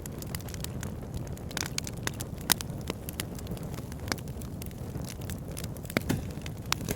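Campfire burning, with a steady low rush of flame and scattered sharp crackles and pops from the wood, the loudest about two and a half seconds in and again about six seconds in.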